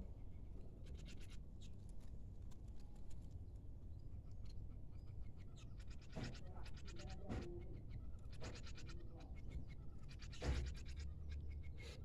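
Small birds giving quick runs of high ticking chirps, mixed with scratchy rustling and a few knocks, the loudest a bump about ten and a half seconds in.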